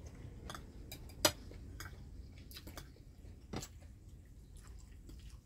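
People chewing food at a meal, with a few sharp clicks and taps scattered through, the loudest about a second in.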